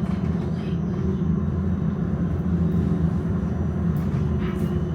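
Tram running along the track, heard from inside the car: a steady low rumble of wheels on rails, with a few faint ticks near the end.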